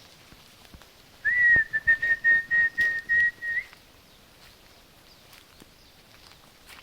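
A high, steady whistled note held for about two seconds, pulsing rapidly in loudness, with a brief upward flick at its start and end.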